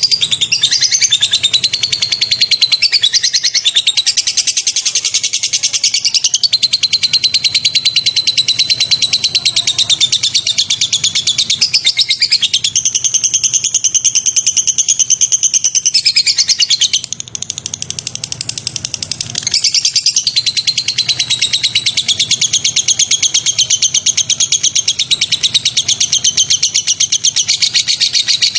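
Recorded songbird song used as a bird-training track: a long, loud, very fast high-pitched chattering trill that runs on almost without a break, easing off for a couple of seconds about two-thirds of the way through.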